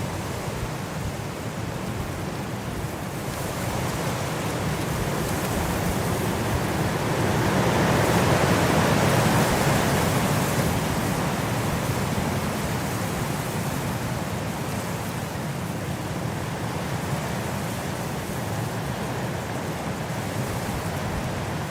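Wind blowing steadily, swelling into a stronger gust around eight to ten seconds in, then easing back.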